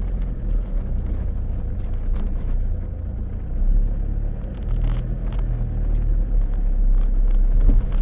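Four-wheel-drive vehicle driving slowly over a dry sandy, rocky riverbed: a steady low engine drone with scattered knocks and rattles from the wheels and body.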